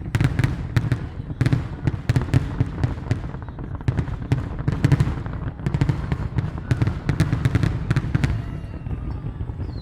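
Fireworks going off in a rapid barrage of bangs and crackles, several a second over a low rumble, thinning out near the end.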